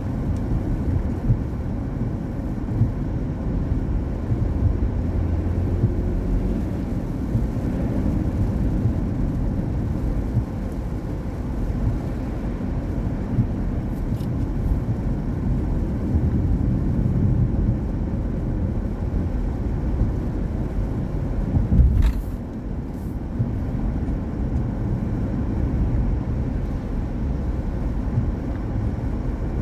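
Car driving on a wet road: a steady low rumble of road and engine noise, with one sharp knock about two-thirds of the way through.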